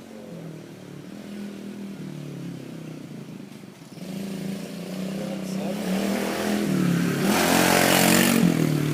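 Dirt bike engine running at low, uneven throttle, its pitch wavering up and down. It grows louder from about four seconds in, is loudest about eight seconds in as the bike comes close, then eases off slightly.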